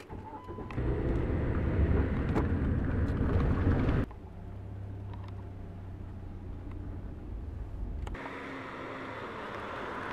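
Car engine heard from inside the cabin, loud for about three seconds, then dropping abruptly to a steady lower hum. About eight seconds in the sound changes suddenly to a car heard from outside on the road.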